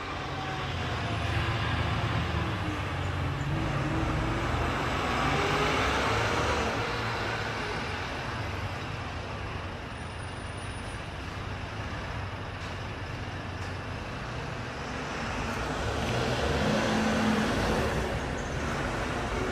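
Road traffic with heavy diesel trucks running past, engine pitch rising and falling. It swells louder twice: early on as one passes, and again near the end.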